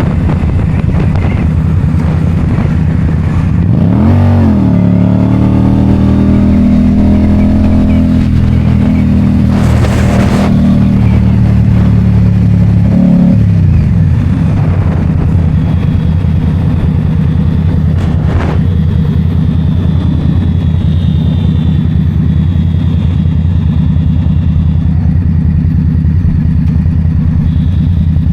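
2022 Indian Scout Bobber's V-twin engine running while riding. It revs up about four seconds in, holds a steady pitch, then drops back about thirteen seconds in, over a constant low rumble.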